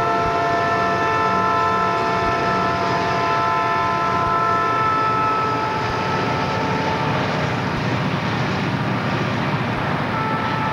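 A Southern Pacific freight train's diesel locomotives passing close by with a steady engine and wheel rumble, while a multi-tone train horn sounds for about the first seven seconds, stops, and sounds again near the end.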